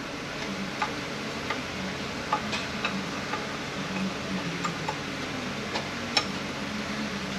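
Scattered light metallic clicks and taps, one or two a second at uneven spacing, from hand tools and parts being handled during automatic transmission teardown, over a faint steady low hum.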